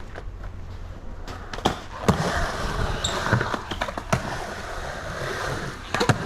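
Skateboard riding a mini ramp: the wheels roll from about two seconds in, broken by several sharp clacks of the board and trucks against the ramp and coping.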